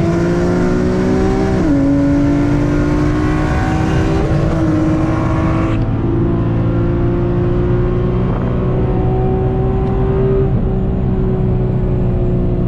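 Nissan VQ V6 sports car engine pulling hard at full throttle. Its note climbs and drops sharply at upshifts about two seconds and four and a half seconds in, then climbs slowly and eases off near the end.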